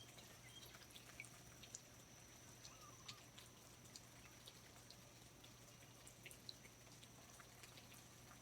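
Faint rainforest ambience: scattered water drops dripping and ticking at irregular intervals over a steady high-pitched thin tone and low hiss.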